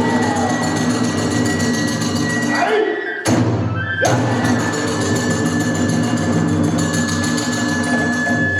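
Kagura festival music: a bamboo flute holding a long high note over big drum strikes, with fast, rhythmic clashing of small hand cymbals through the second half.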